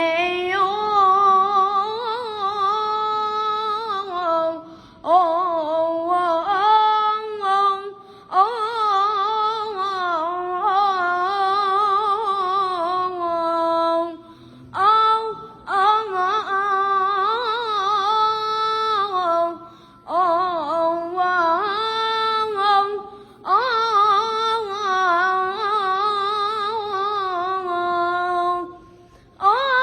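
A boy singing solo without accompaniment in a high, clear voice: long ornamented phrases with a wavering, trembling pitch, each held for several seconds and separated by short breaths.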